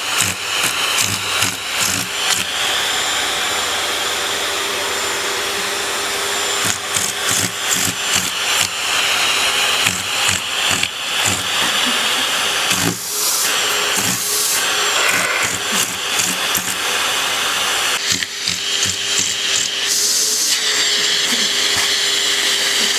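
Vacuum cleaner running steadily with a whooshing whine, while frequent short knocks and clatters sound over it.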